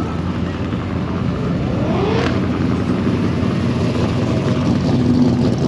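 Car engine running loudly as the car drives a lap, with a brief rising rev about two seconds in.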